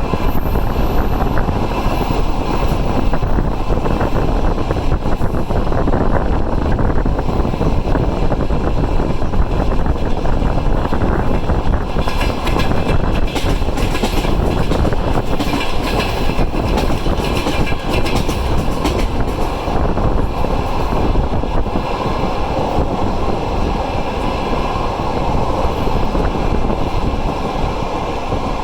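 Passenger train running at speed: a steady loud rumble of wheels on rails mixed with rushing air, with a brighter rattling stretch of clicks about halfway through.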